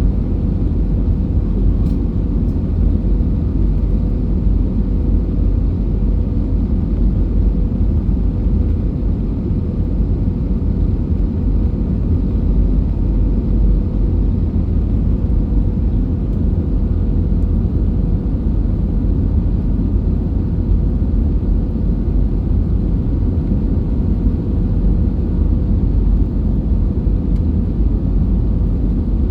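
Airbus A320 in flight: a steady, unchanging roar of jet engines and airflow, with a constant hum running through it.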